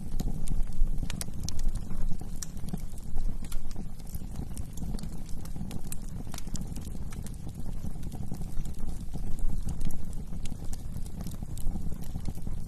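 Wood fire burning in a fireplace, a steady low rumble of flames with irregular sharp crackles and pops of burning wood.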